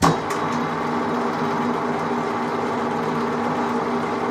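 A metalworking lathe is switched on with a sudden start. It then runs at a steady speed, a constant mechanical hum with several fixed tones.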